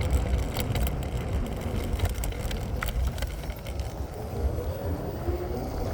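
Wind buffeting the microphone and road noise while riding an InMotion Climber electric scooter slowly over snowy streets, with scattered sharp clicks in the first few seconds.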